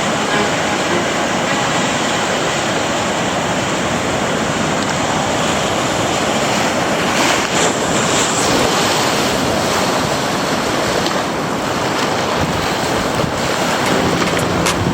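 Ocean surf breaking and washing in, a steady rush of noise, with wind on the microphone.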